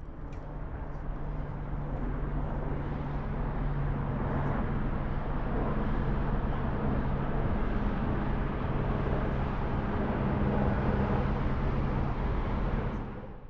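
Vehicle traffic noise: a steady rushing with a low engine hum, swelling over the first couple of seconds and dropping away sharply near the end.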